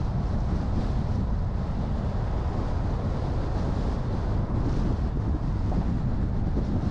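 Steady low rumble of a car on the move: road, engine and wind noise, heavy in the low end, with no changes in speed or gear.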